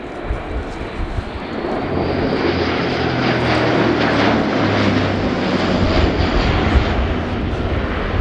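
Airbus A400M's four Europrop TP400-D6 turboprop engines and propellers during a display pass, with a steady low propeller hum. The sound grows louder about two seconds in, is loudest through the middle, then eases slightly.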